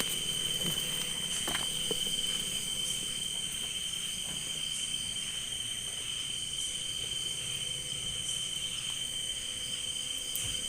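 Evening insect chorus, a steady high-pitched chirring of crickets or similar insects that holds unbroken throughout.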